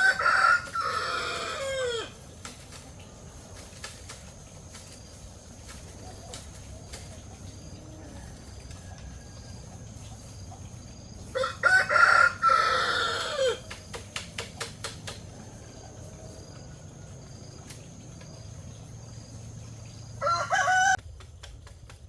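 Rooster crowing: two long crows about ten seconds apart, each lasting about two seconds, and a shorter call near the end.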